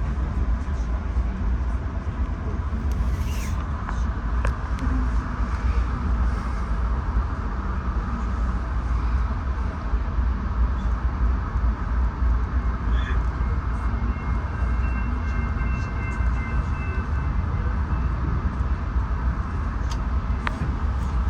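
Passenger train running at speed, heard from inside the coach: a steady low rumble of wheels on rail with a few sharp clicks. A faint high tone sounds for a few seconds after the midpoint.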